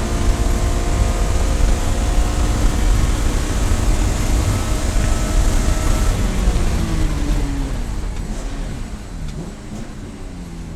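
Race car engine running hard at high speed under heavy wind and road noise; about two-thirds of the way through the engine note falls away over a few seconds and the whole sound gets quieter as the car slows.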